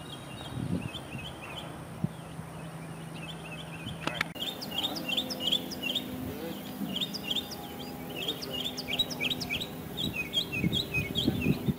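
Small birds chirping: many short, quick chirps repeating in a dense chatter.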